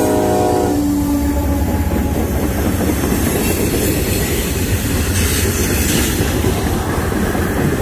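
Freight train rolling past close by: a locomotive horn cuts off about a second in, leaving a steady low rumble and clatter of flatcar wheels on the rails.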